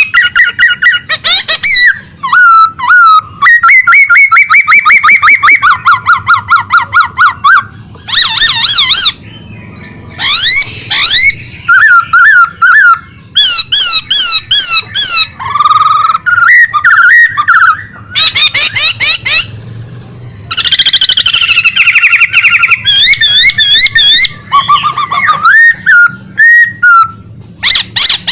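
A caged songbird singing vigorously in long, varied phrases of rapid repeated whistled notes and trills, with short pauses between phrases.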